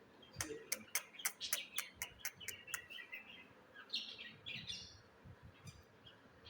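Budgerigars calling: a quick run of sharp chirps, about four a second, followed by softer warbling chatter.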